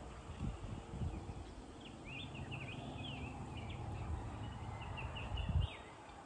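Birds giving short, quick chirping calls, a run of them from about two seconds in until near the end, over a steady low rumble.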